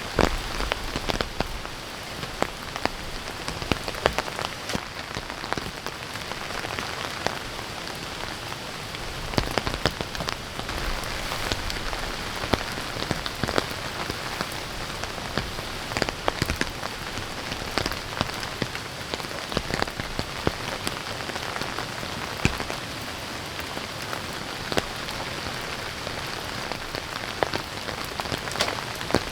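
Steady heavy rain falling, with many sharp drop hits scattered through it.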